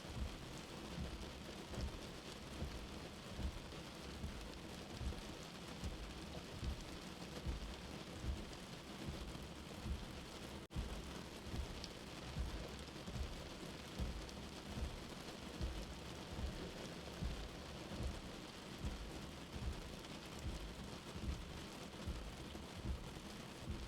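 Steady rain falling on a shelter, as heard from inside, with a slow heartbeat of soft, low thumps about every second and a half beneath it. The sound cuts out for a moment near the middle.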